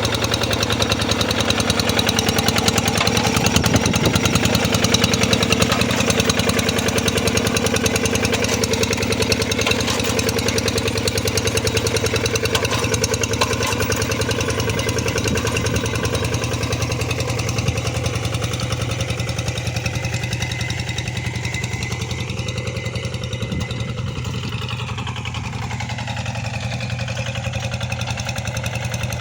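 Tractor engine running steadily as it ploughs a flooded rice paddy. Its note wavers and shifts in pitch for a few seconds about two-thirds of the way through.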